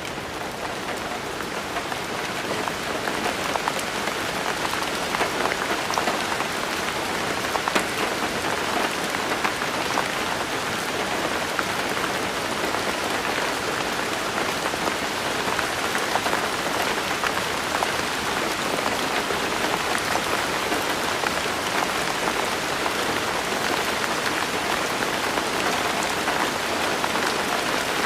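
Steady rain falling, with scattered drops ticking. It swells over the first few seconds and then holds even.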